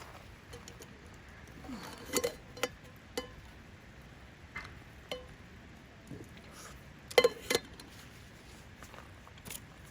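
Scattered light clinks and knocks of dishes and cooking utensils being handled, about ten in all, some with a brief ring; the loudest pair comes about seven seconds in.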